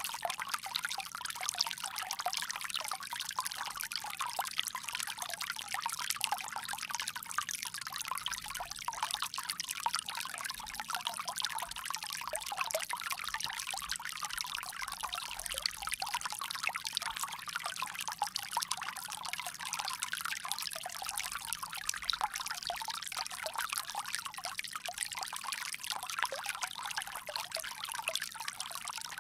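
Water pouring steadily from a bamboo spout, an even, continuous splashing trickle.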